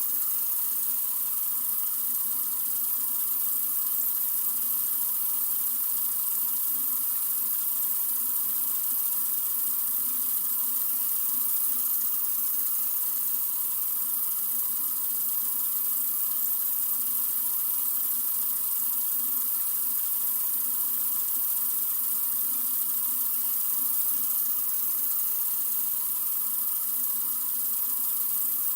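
Sink faucet running in a steady stream, an even hiss of water with no change in flow.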